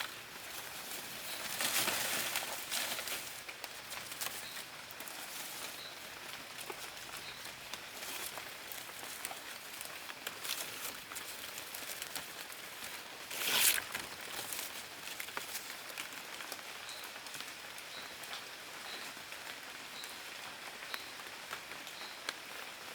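Steady outdoor crackling and pattering, like rain or dry leaves, with two louder rustling bursts, one about two seconds in and one about fourteen seconds in. A faint high chirp repeats about once a second in the second half.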